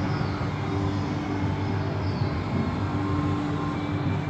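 A large fireworks display heard from a distance, with its bursts blending into a continuous rumble. A faint curving whistle comes about two seconds in.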